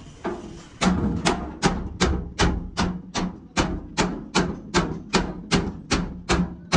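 Steady hammering on a bent sheet-metal truck fuel tank to beat out the dents, about three sharp ringing metal blows a second after a short pause at the start.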